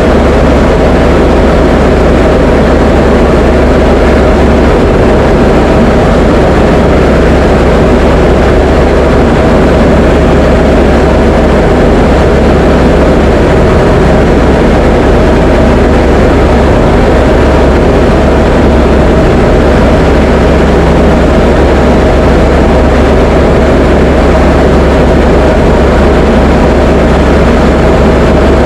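Diamond DA20 light aircraft's piston engine and propeller droning steadily at constant power, loud and unchanging throughout.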